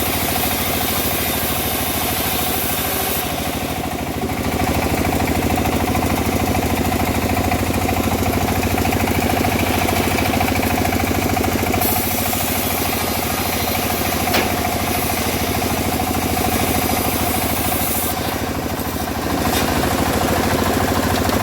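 Homemade engine-driven bandsaw mill running steadily while cutting teak, a constant engine hum under a high hiss from the blade that fades about three seconds in and comes back about halfway through.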